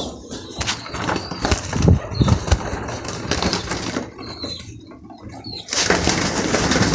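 Racing pigeons flapping their wings and scuffling around the feed, with scattered clicks and thumps, then a burst of wingbeats near the end.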